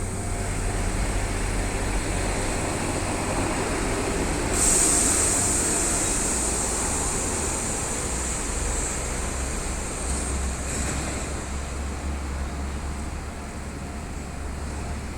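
Electric commuter train with a steady low rumble. A loud hiss starts suddenly about four and a half seconds in and fades away over several seconds, and a shorter hiss comes near eleven seconds.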